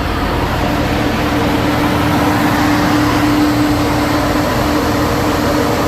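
Loud steady rushing with a constant hum from a chassis dyno cell, where the big cooling fans and the turbo K20 Civic on the rollers are running at a held speed.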